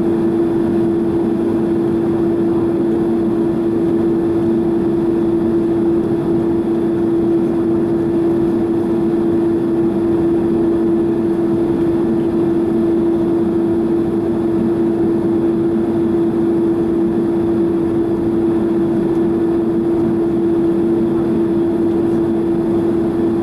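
Boeing 767-300's GE CF6 engines at idle, heard from inside the cabin as a steady hum with one strong unchanging tone, while the airliner holds on the runway before takeoff.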